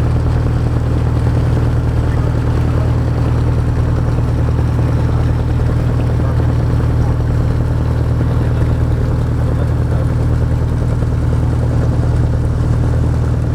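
An engine on a fishing boat running steadily, a low, even drone that does not change.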